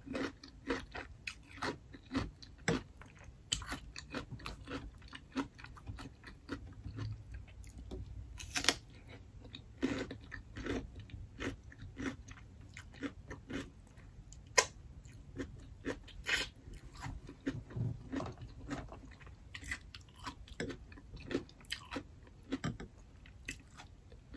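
Close-up crunchy bites and chewing of raw cucumber spears, irregular crunches one or two a second, some louder than others.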